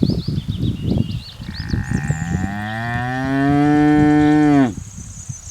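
Bull mooing: after a couple of seconds of irregular low noise, one long, low call that rises slightly, holds, and breaks off with a sharp drop in pitch.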